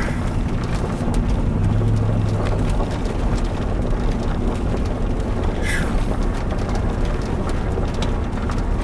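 Chevrolet Tahoe driving, heard from inside the cab: a steady low engine hum over continuous road rumble.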